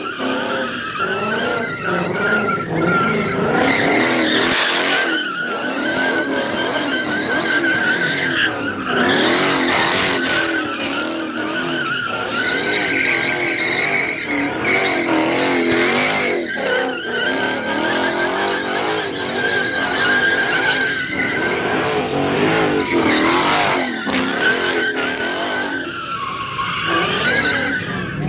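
Car tyres squealing on and on as a car spins donuts, a wavering high screech over the engine running hard.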